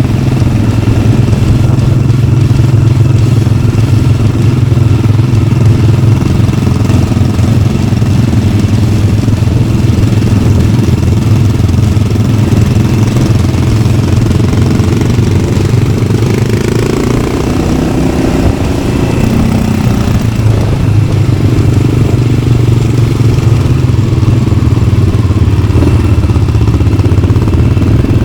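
Yamaha XT600's single-cylinder four-stroke engine running through an Arrow exhaust, a steady, loud thump. The engine note eases off briefly about two-thirds of the way in, then picks up again.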